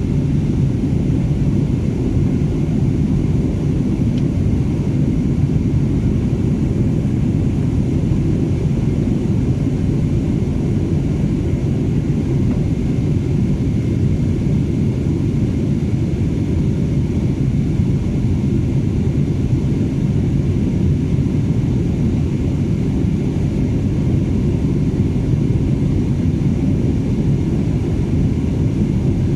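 Steady cabin rumble of an Airbus A330 jet airliner: engine and airflow noise, even and unchanging.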